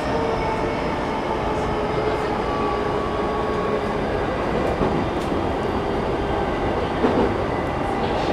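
Interior running sound of a JR East E233-1000 series electric train with a Mitsubishi IGBT-VVVF inverter under way: a steady rumble of wheels on rail with faint, steady motor and inverter tones and a few light rail-joint clicks.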